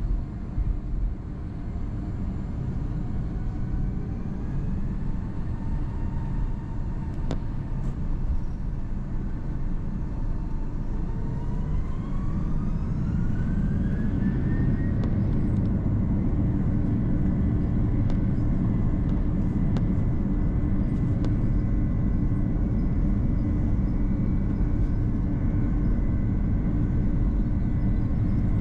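Airbus A330-200 jet engines heard from inside the cabin over a steady low rumble. About halfway through, their whine climbs in pitch over a few seconds as they spool up to takeoff power, and the rumble grows louder and then holds steady.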